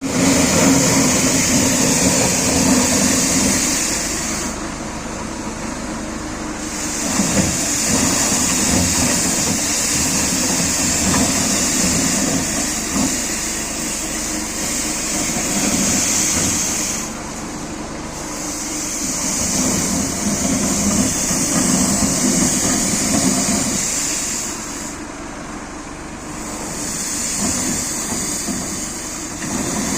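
Forklift-type ride-on industrial floor sweeper running, a steady engine hum under a loud high hiss from its brushes and suction fan. The hiss drops out briefly three times, about five, seventeen and twenty-five seconds in.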